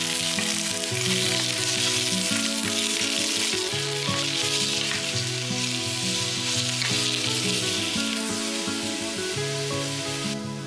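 Eggplant pieces sizzling in a hot cast-iron pot as a wooden spatula turns them. The sizzle stops about ten seconds in, with background music underneath.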